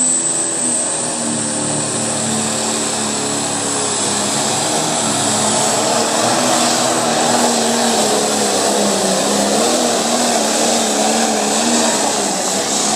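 Pulling tractor's engine running hard under full load, a loud, steady drone whose pitch wavers slightly, with a thin high whistle over it.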